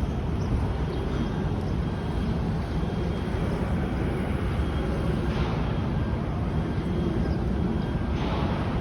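Steady city street noise heard from a moving bicycle: a continuous low rumble of traffic and wind on the microphone, with two short hissing bursts about five and eight seconds in.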